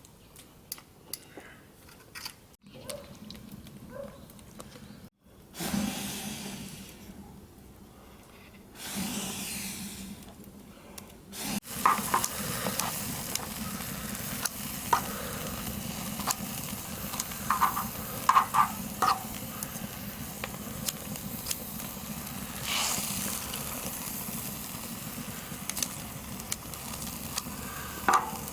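Food frying in pork fat on a cast-iron cauldron-lid griddle: a steady sizzle, with scattered clicks and scrapes of a utensil working the food. The first part is quieter, a few short stretches with light clicks broken by abrupt cuts.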